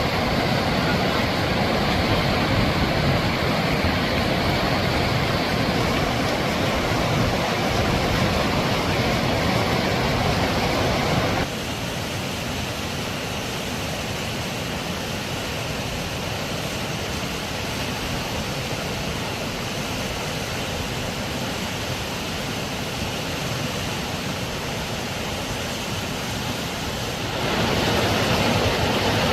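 Rushing river water, a steady noise that drops in level abruptly about eleven seconds in and rises again near the end.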